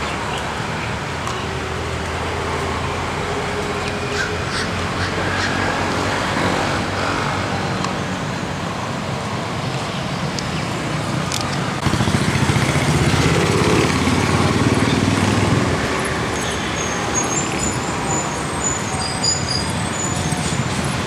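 Street ambience: steady road traffic, with one vehicle passing louder about twelve seconds in. Birds call over it, with short high chirps near the end.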